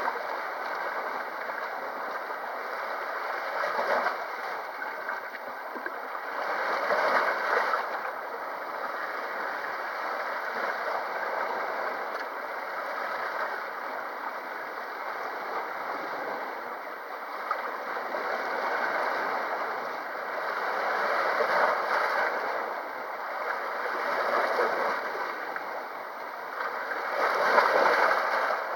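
Sea waves washing ashore: a continuous rush of water that swells and falls back every few seconds, with the biggest surges near the end.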